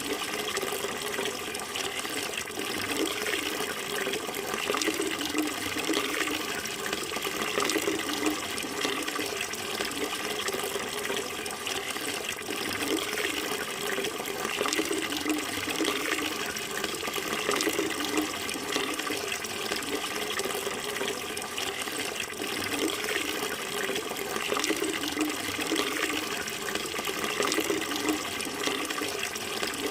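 Running water flowing steadily, a continuous even rush without a break.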